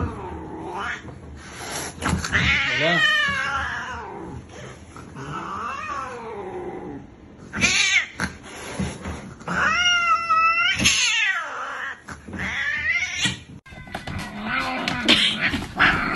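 A domestic cat meowing in a series of long, drawn-out calls that waver up and down in pitch, the strongest one about ten seconds in.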